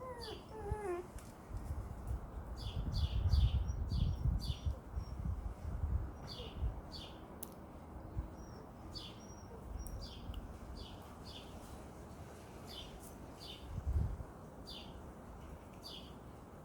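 A small bird chirping over and over, with short high calls falling in pitch, about one or two a second. Under it runs an uneven low rumble, louder in the first few seconds and again briefly near the end.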